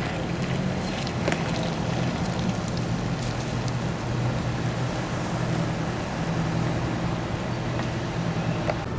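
Car driving: a steady low engine hum under road and wind noise, with a few light ticks.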